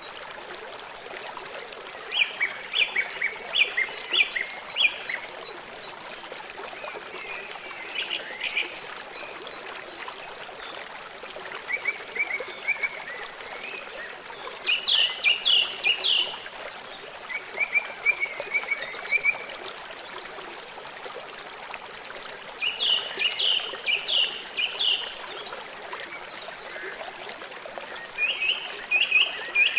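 A songbird singing short phrases of several quick high notes, repeated every few seconds, over the steady rush of running stream water.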